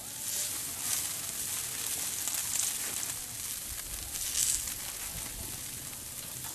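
Chicken sizzling on a grill over hardwood embers: a steady hiss with scattered small crackles.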